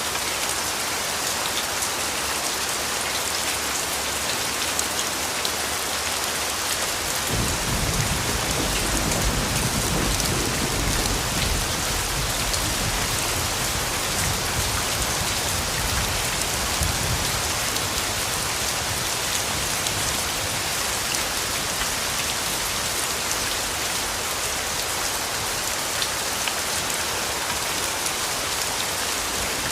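Steady rain falling, an even hiss of drops, with a low rumble of distant thunder that starts about a quarter of the way in and fades away over about ten seconds.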